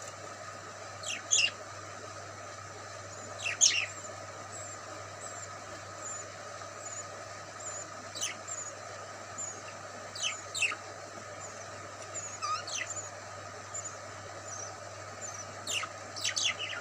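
Small birds chirping: sharp chirps that fall quickly in pitch, one every two or three seconds and in pairs near the end, with short faint high peeps in between. A steady low hum runs underneath.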